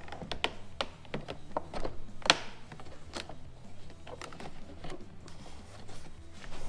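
Hard plastic clicks and knocks as the pleated tube of a Stihl BR 700 backpack blower is pried off the snap-on lip that holds it, with one louder click about two seconds in.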